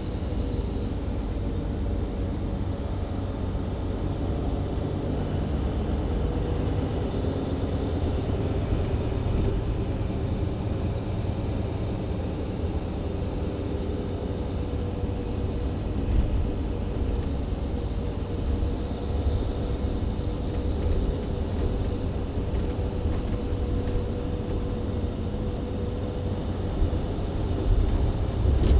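Mercedes-Benz Citaro C2 LE hybrid bus heard from inside the cabin: engine and Voith-transmission drivetrain running steadily with road rumble and a steady hum. A few short rattles and clicks come through, one about halfway and several near the end.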